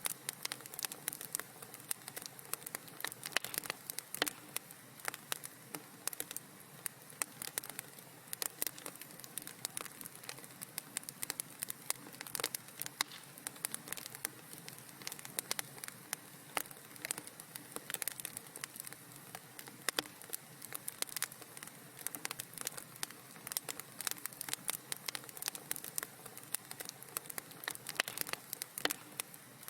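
Wood fire crackling in a fireplace: a quick, irregular stream of small sharp pops and snaps over a soft steady hiss.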